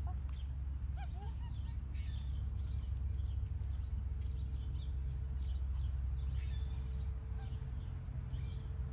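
Scattered short, high bird chirps and tweets over a steady low rumble, with a faint steady hum underneath.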